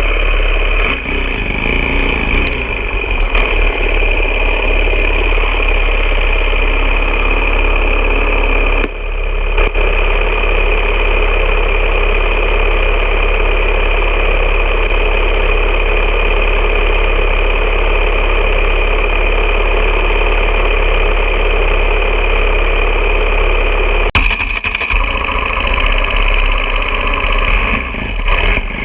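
Vehicle engine running steadily, with brief dips in level twice, once about nine seconds in and again about twenty-four seconds in.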